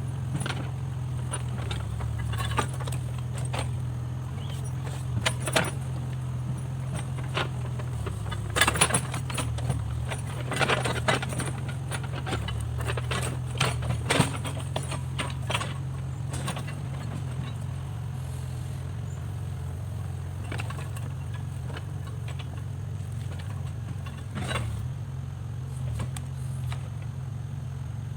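Backhoe loader's diesel engine running steadily, with scattered metallic clinks and rattles that are busiest in the middle.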